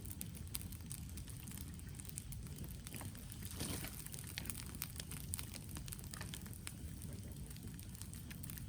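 Wood fire crackling, with irregular sharp pops over a steady low rumble. A brief rushing hiss swells up a little over three seconds in.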